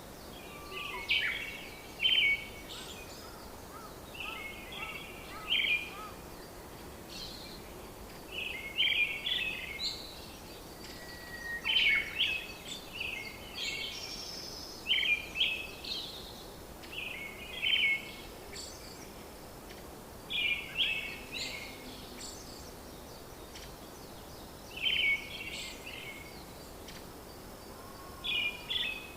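Birdsong: short twittering phrases repeated every two to three seconds over a steady background hiss.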